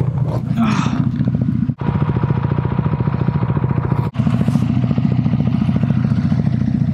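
Motorcycle engine idling with an even, rapid throb, broken by two brief dropouts about two and four seconds in.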